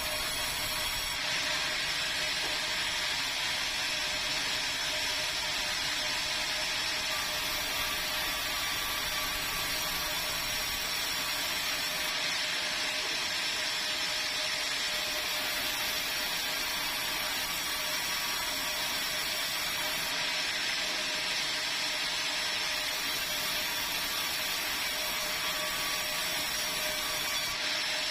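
Sawmill saw running steadily through meranti timber, a continuous even noise with a steady underlying hum.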